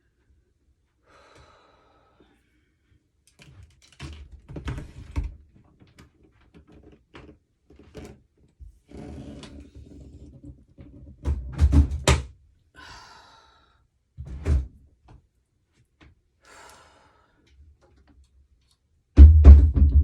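A scattered series of knocks and thuds, as of things being handled and set down, with the loudest and deepest thud near the end.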